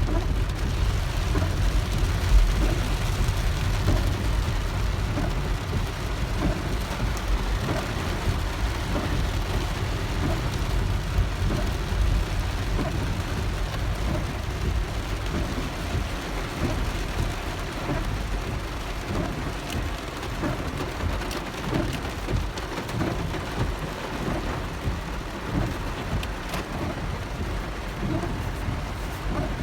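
Heavy rain pattering on a car's roof and windshield, heard from inside the cabin while driving, over a steady low rumble.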